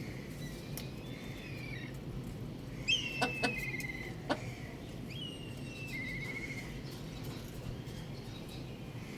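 Young rooster chirping: three calls, each a falling note that ends in a quick trill. A few sharp taps or clicks come about three and four seconds in, over a steady low hum.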